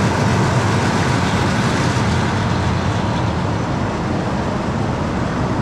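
Family roller coaster train running along its track, with a loud, steady rush of wind over the microphone.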